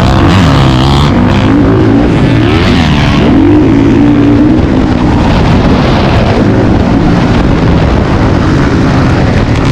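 Dirt bike engine running hard on a motocross track, its pitch rising and falling again and again as the throttle is worked and the gears change.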